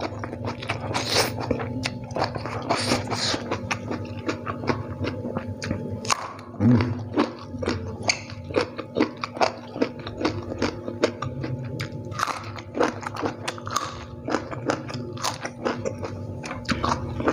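Close-miked eating of spicy fried instant noodles with raw bean sprouts and raw vegetables: a dense, continuous run of wet crunches, bites and mouth clicks.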